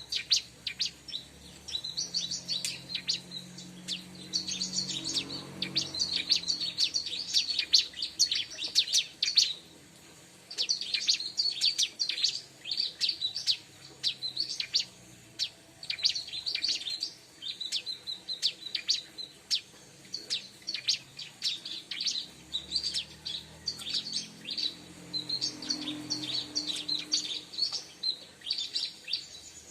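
Bar-winged prinia (ciblek) calling: rapid runs of high, sharp chirps in quick phrases with brief pauses, one short break about ten seconds in.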